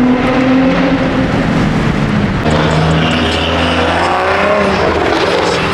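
A car engine running as the car drives, a steady drone that shifts pitch about two and a half seconds in.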